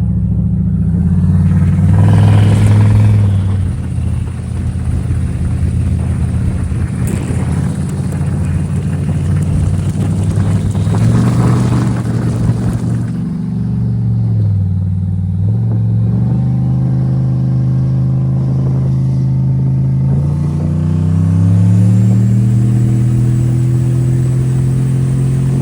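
Turbocharged Chevy Silverado engine pulling under load, its revs climbing and dropping through several gear changes. A thin high turbo whistle rises about 20 seconds in and holds.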